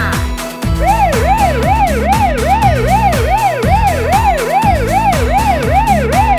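Siren sound effect, a fast rising-and-falling wail repeating about two and a half times a second, starting just before a second in, over background music with a steady beat.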